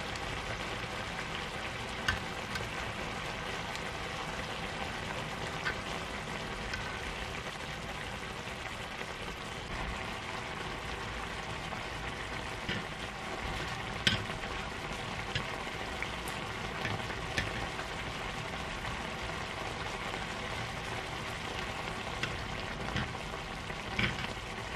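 Baby octopus and pork jowl in red chili sauce sizzling and bubbling steadily on a round griddle pan, with a few sharp clicks.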